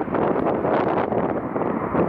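Strong wind buffeting an unshielded microphone: loud, gusting rumble and rustle.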